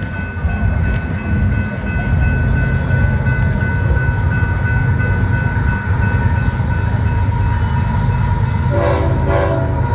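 A train running past with a steady low rumble, and a short horn blast near the end.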